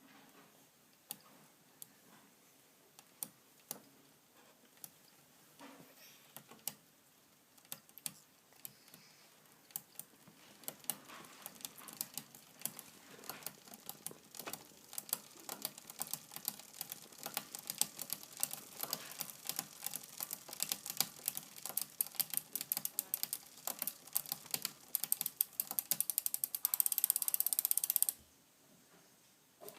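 Rhythmic clicking from a Shimano Sora rear derailleur and cassette as the bicycle drivetrain turns. About one click a second at first, quickening into a fast, dense run that cuts off suddenly near the end. The clicking is a sign of slightly misadjusted derailleur limit screws.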